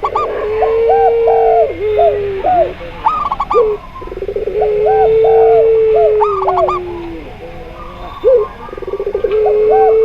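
Zebra doves, spotted dove and puter pelung dove cooing together: a long steady coo held for about two seconds under quicker, higher looping notes. The phrase starts with a brief rattle and repeats about every four seconds, three times.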